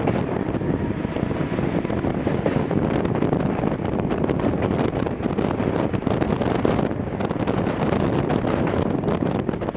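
Running noise heard inside a Gakunan Railway 7000 series electric train under way: a steady rumble of the car and its wheels on the rails, with many small rattles and clicks.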